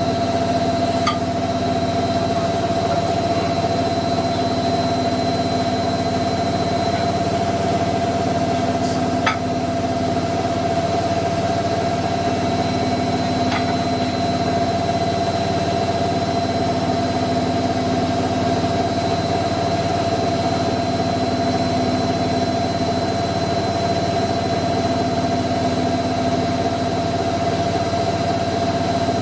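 Hoover Electron 1100 washing machine running, its motor and drum giving a steady hum with a constant whine and no change in speed.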